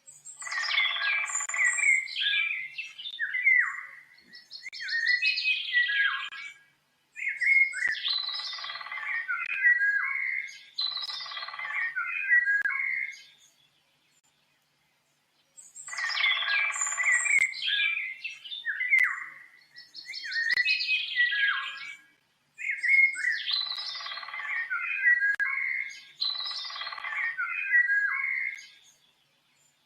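Birds chirping and singing in quick runs of varied chirps, trills and whistles, phrase after phrase. About halfway through there is a gap of roughly two seconds of silence, and then the same stretch of song plays again exactly as before.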